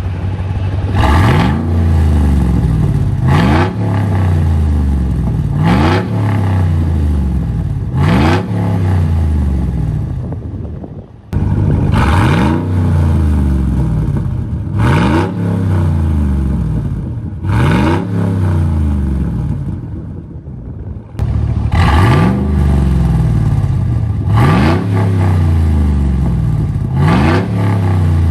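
Muffler-deleted Hummer exhaust as the engine is revved over and over: about ten quick throttle blips, each pitch rising sharply then falling back toward idle, with two abrupt breaks partway through.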